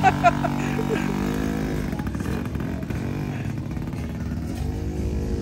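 A motorcycle engine running steadily, with slight rises and falls in pitch, under background music.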